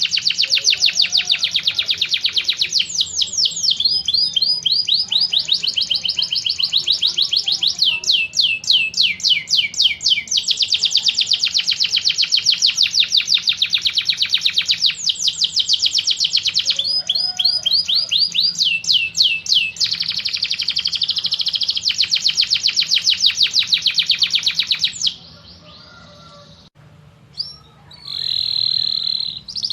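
Birdsong from a combined tengkek buto, cililin and canary tutor-song recording: fast, dense trills of repeated high sweeping notes, many a second, in long unbroken runs. The trilling stops abruptly about 25 seconds in, and one short call follows near the end.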